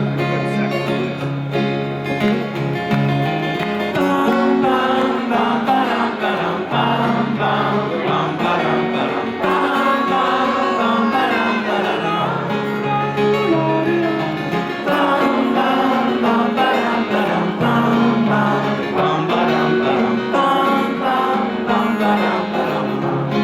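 Live band playing a steady acoustic guitar-driven instrumental lead-in to a folk-rock song.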